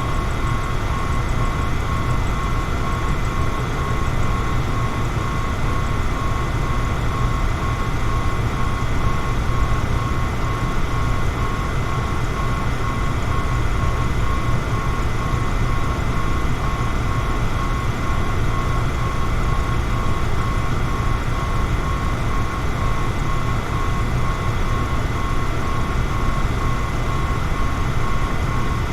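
Electric fan running steadily: an even, unchanging rush of air, heaviest in the low end, with a faint steady whine over it.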